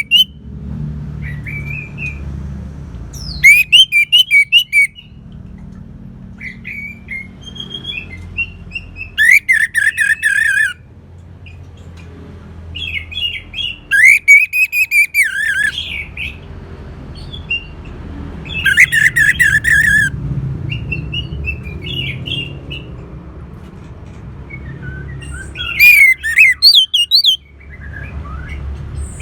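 Orange-headed thrush singing: five loud, rapid, warbling phrases of one to two seconds each, spaced a few seconds apart, with softer short notes between them, over a steady low hum.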